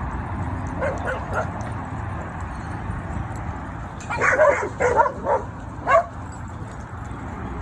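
Dogs barking: a few faint yips about a second in, then a quick run of about five louder barks between four and six seconds in, over steady low background noise.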